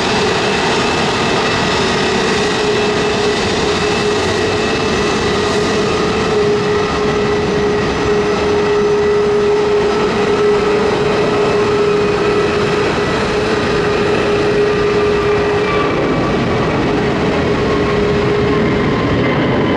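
Airbus A320neo's turbofan engines running at low taxi thrust: a steady rush with a held whining tone, which fades out near the end.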